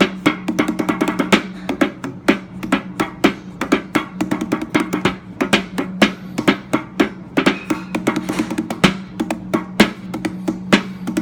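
Music: rapid, uneven bongo hits over a steady low drone.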